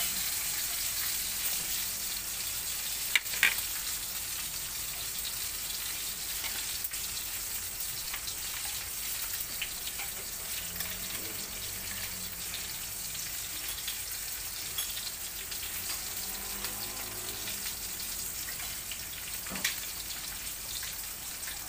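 Hotdogs frying in oil in a nonstick pan, a steady sizzle throughout. A pair of sharp clicks about three seconds in and another near the end.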